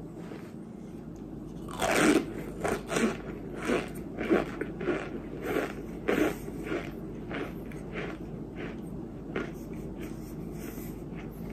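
A dry chunk of white clay being bitten and chewed: a loud crunch about two seconds in, then crunches about twice a second that grow weaker and die away after about eight seconds.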